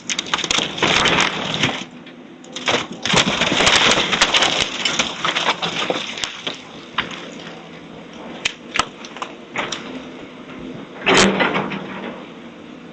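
House demolition debris being crushed and broken: long stretches of crunching and splintering with sharp cracks, and one loud crash near the end.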